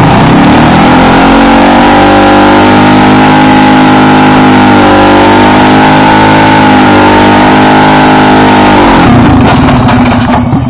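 Small motorcycle engine running loud at high revs, held steady for several seconds, then dropping off about nine seconds in.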